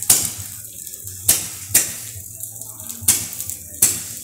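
Multi-shot firework battery firing its shots one after another: five sharp bangs in about four seconds, each trailing off briefly.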